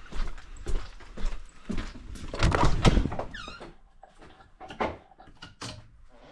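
Rummaging while searching for something: a run of knocks, thumps and rustling, loudest about two and a half to three seconds in, then a short squeak falling in pitch just after three seconds, followed by a few lighter clicks.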